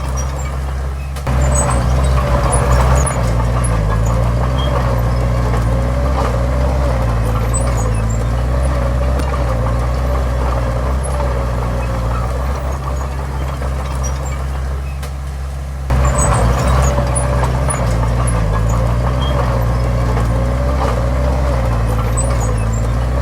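Diesel engine of heavy earthmoving machinery running steadily close by. It picks up sharply about a second in and again about 16 seconds in, then holds at the higher level.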